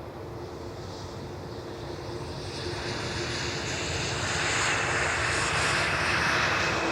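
Jet airliner engines growing steadily louder as the aircraft comes closer, with a high whine over a broad rushing noise that builds from about three seconds in.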